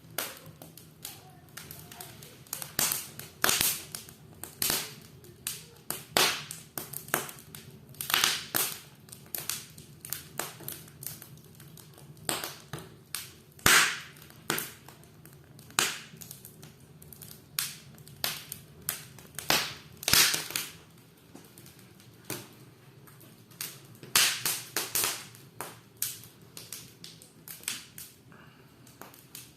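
Wood fire crackling in an open stone fireplace with a round firebox: irregular sharp pops, some coming in quick clusters, over a low steady hum.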